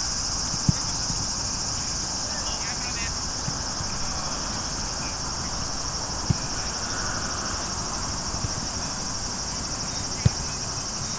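Steady, high-pitched chorus of insects chirring without a break, with three short low thumps about a second in, around six seconds in and near the end.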